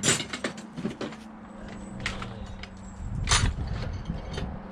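Small metal clicks and knocks from a magnetic screwdriver working at the valve collets of a compressed valve spring on a cylinder head. There is a quick run of clicks in the first second, then single louder clicks about two and three and a half seconds in, over a faint steady hum.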